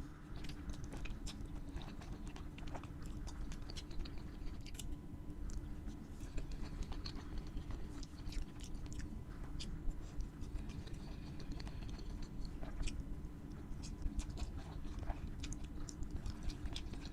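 Close-miked chewing of crispy fried food, with many small crackling crunches scattered throughout over a low steady hum.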